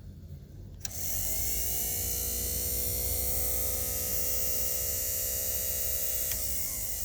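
Heater blower motor switched on with a click about a second in, spinning up to a steady whirring hum. Near the end a second click, and the motor slows to a lower, slightly quieter speed.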